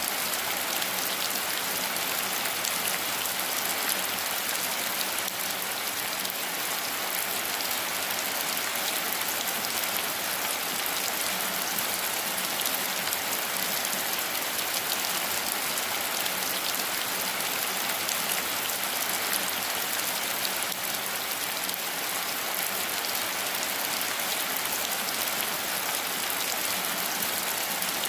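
Steady rain falling, an even hiss full of fine patter from countless drops, with no let-up or change.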